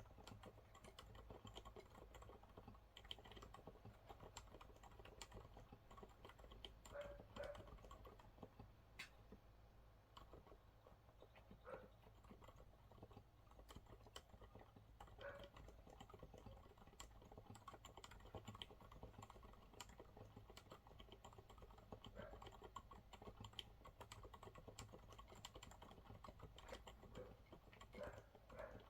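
Quiet, continuous typing on a Monsgeek MG108W keyboard with TTC silent brown switches: a dense, irregular run of soft, damped keystroke clicks.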